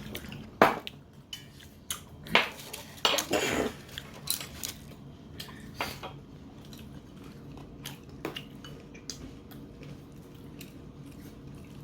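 Utensils clinking and clattering against dishes in a few separate knocks, busiest in the first few seconds, then only faint light ticks.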